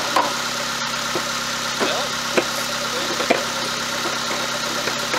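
Car engine idling steadily on canola oil used as its lubricant in place of motor oil, with a few sharp clicks at irregular intervals over the running.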